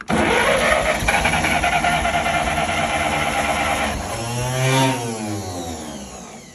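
Ferguson TE20 tractor engine being cranked by its starter and firing, running roughly for about four seconds. About four seconds in, the revs rise and then fall, and the sound dies away near the end.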